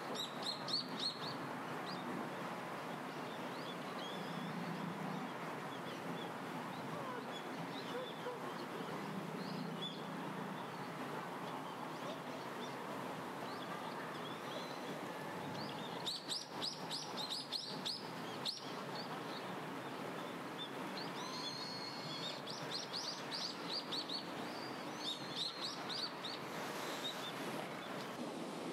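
Small songbirds chirping in quick runs of high, repeated notes, in spells at the start, around the middle and near the end, over a steady outdoor background hiss.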